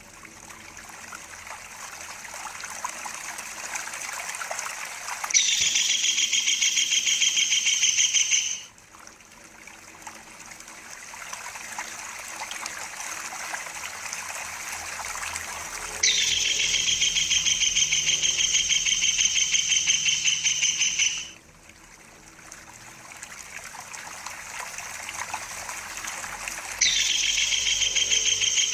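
Kingfisher giving a rapid, high-pitched rolling trill in three bouts of about three to five seconds each, each starting and stopping abruptly, over a background of trickling water.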